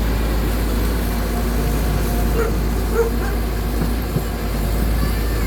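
Backhoe excavator's diesel engine running steadily with a low rumble, with a couple of short barks about halfway through.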